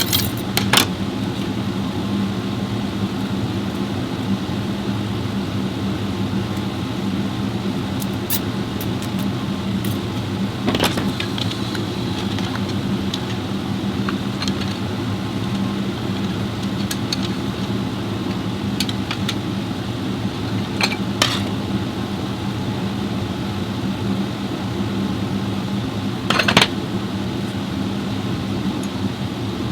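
A steady engine hum running evenly throughout, with a few sharp clicks and knocks scattered through it.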